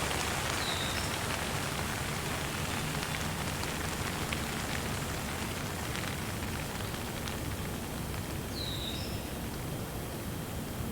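Steady rain hissing, with scattered drops ticking. A bird gives a short chirp twice, about a second in and near the end.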